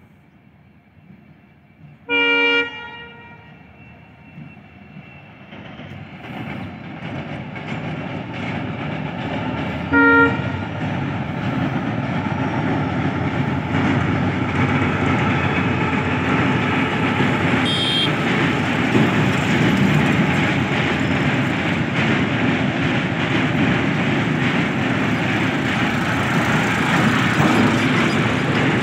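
Freight train hauled by a WDG-4 diesel locomotive crossing a bridge: the rumble and clatter of the wagons build over several seconds, then run on steadily. A train horn sounds twice, a short blast about two seconds in and a briefer one about ten seconds in.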